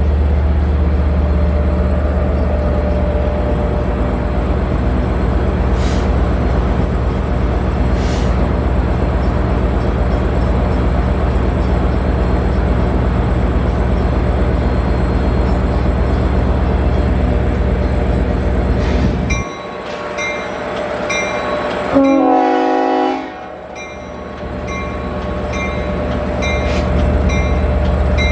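A train running with a steady low drone. About two-thirds of the way through the low drone drops away, a short burst of several tones sounds, and a regular ringing of about one stroke a second follows.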